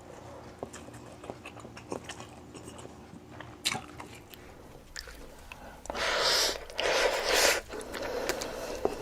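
Close-miked mukbang eating: a person chewing and biting food, with scattered small mouth clicks and crunches. About six and seven seconds in come two louder, noisy bursts, each under a second long.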